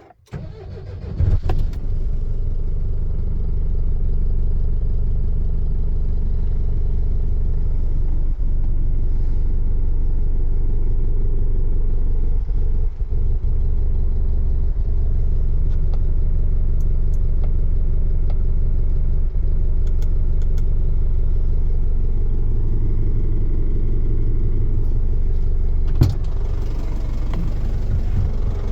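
DAF LF 180's four-cylinder diesel engine starting: a short crank catches within the first second or two, the revs flare, then it settles into a steady idle. A single sharp knock near the end.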